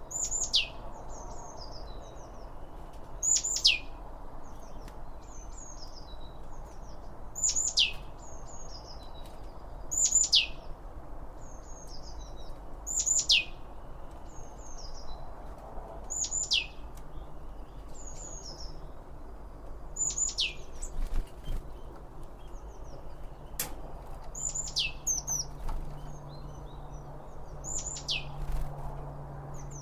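A bird repeatedly gives a sharp call that sweeps steeply down in pitch, about once every three seconds, with fainter short chirps from other birds in between. Under the calls runs a steady low background hiss.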